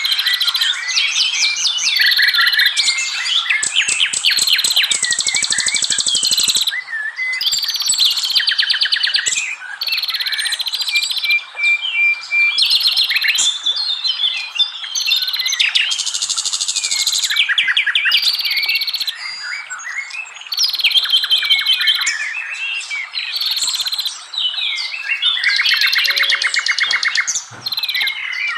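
Songbirds singing in a dense, continuous chorus: rapid chirps, whistles and fast rattling trills, all high-pitched and overlapping, with brief gaps between phrases.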